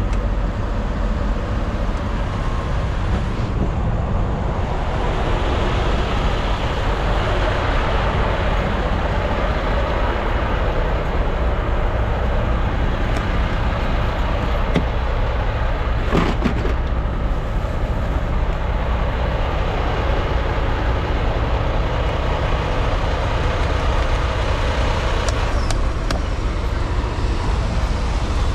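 Semi-truck diesel engine idling: a steady low rumble, with a single short click about halfway through.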